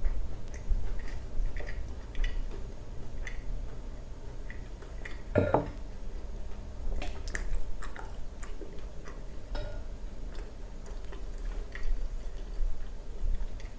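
Close-miked eating of a fried Colombian empanada: scattered small crunches and wet clicks of chewing, with one louder crunch about five and a half seconds in.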